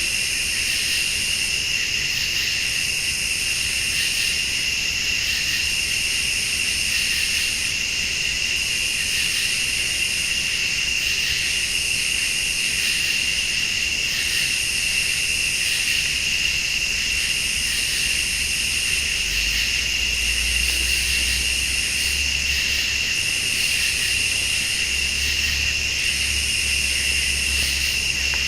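Night chorus of crickets and late-summer insects: steady high trilling, with one higher insect call that pulses on and off about every two seconds. A faint low rumble joins in during the second half.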